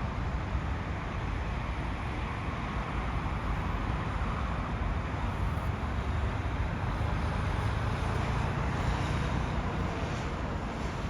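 Steady low rumble of vehicle noise with wind on the microphone, with no distinct event and no swell of a passing train.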